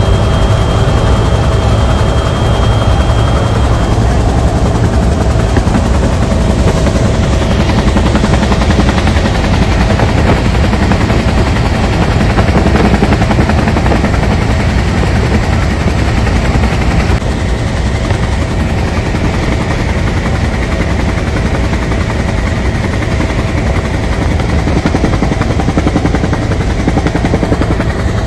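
Bell UH-1 Huey helicopter running, its two-bladed main rotor giving a loud, fast, even chop over a steady turbine tone.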